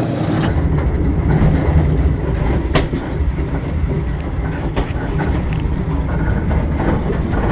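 Old train running along the track, heard from aboard: a steady low rumble of wheels on rails, with a few sharp clicks from the rail joints.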